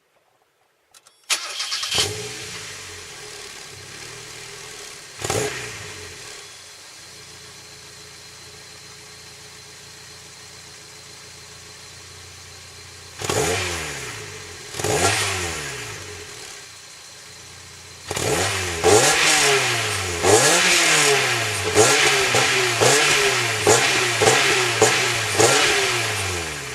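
A 1993 Mazda Roadster NA6CE's 1.6-litre four-cylinder through its stock muffler: the engine starts about a second in and settles to idle. It is blipped once, then revved twice, then given a quick run of throttle blips near the end, each rise in pitch falling back to idle.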